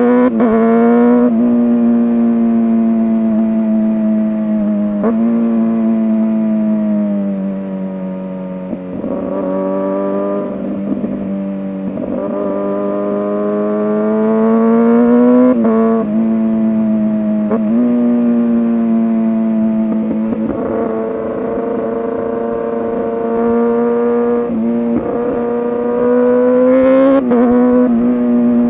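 Kawasaki ZX-6R 636 inline-four sport bike engine running through an SC-Project aftermarket exhaust, heard from the bike while it is ridden. The revs climb and then change abruptly every few seconds with the gear changes.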